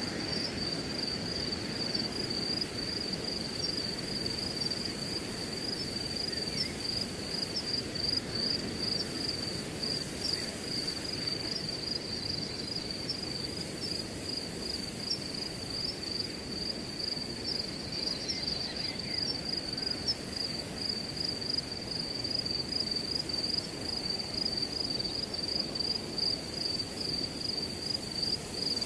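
Crickets chirping in a continuous, pulsing high trill over the low rush of wind blowing through a grass field.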